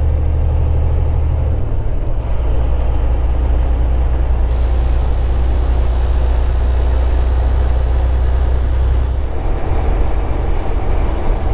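Volvo 780 semi truck cruising on the highway: a steady low engine drone with road and tyre noise.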